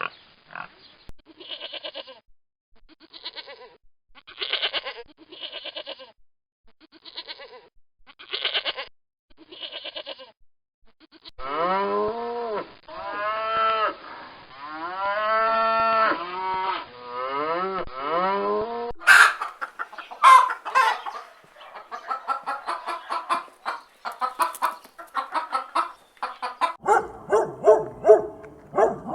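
A run of farm animal calls, one kind after another. Short grunts come about once a second for the first ten seconds or so, then long wavering livestock calls, then fowl calling from about the middle, and a dog starts barking near the end.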